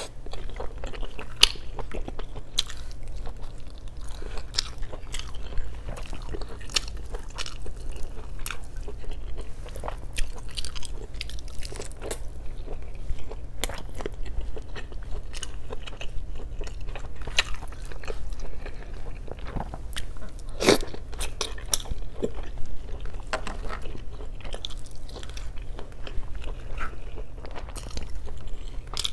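Close-miked mouth sounds of a person biting and chewing braised chicken and pork adobo: irregular wet smacks and short clicks, with one louder bite about two-thirds of the way through.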